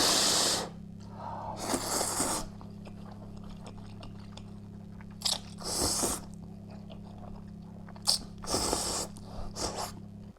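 A person eating close to the microphone: about six loud bursts of slurping, biting and chewing, with short pauses between them, over a steady low hum.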